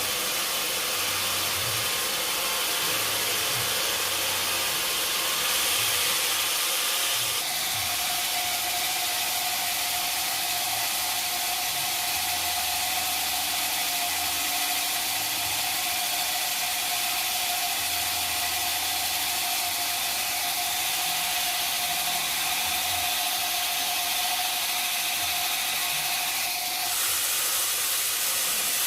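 Sawmill saw running through mahogany wood with a steady hiss; a steady whine joins about a quarter of the way in and stops shortly before the end.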